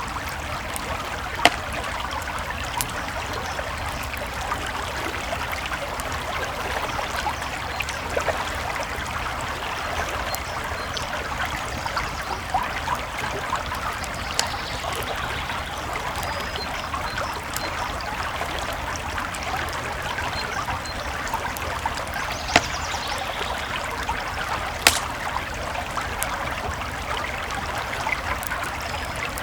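A creek babbling steadily under a crackling campfire, with a few louder sharp pops from the fire.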